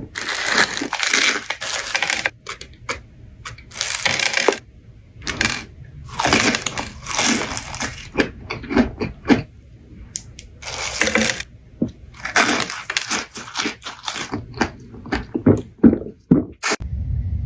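Crunchy food being bitten and chewed close to the microphone: loud crackling crunches in repeated bursts with short pauses between them.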